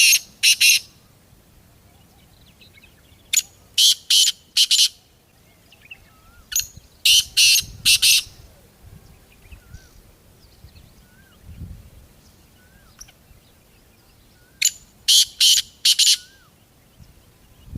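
Black francolin calling: loud, harsh phrases of four or five quick grating notes, each phrase about a second and a half long. The end of one phrase comes at the start, then three full phrases a few seconds apart. Faint short chirps of smaller birds sound in the gaps.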